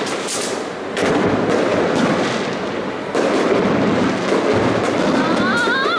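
Aerial fireworks shells bursting in a continuous barrage of bangs and crackle, with sharper booms about a second in and again about three seconds in.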